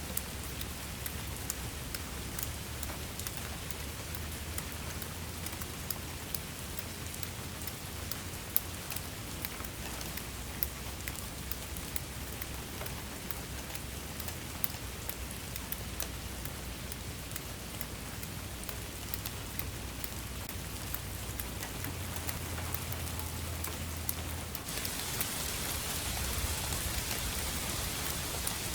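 Steady rain with many individual drops ticking sharply over an even hiss, and a low rumble beneath. About 25 seconds in, the hiss grows louder and brighter.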